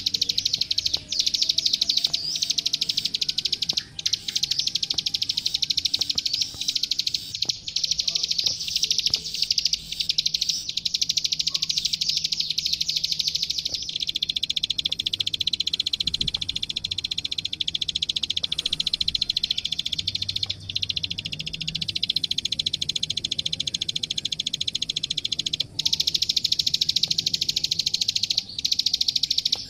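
Klik-klik (ciblek sawah) bird singing a long, fast run of high clicking notes, broken only by a few brief pauses. This is a 'gacor' full-volley song used as a tutor recording to teach young birds.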